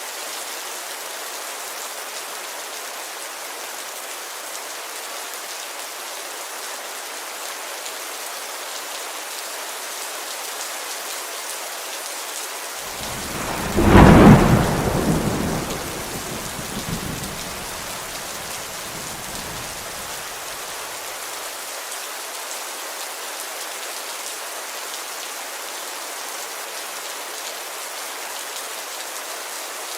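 Steady heavy rain on a window, with a thunderclap about halfway through that rumbles away over several seconds.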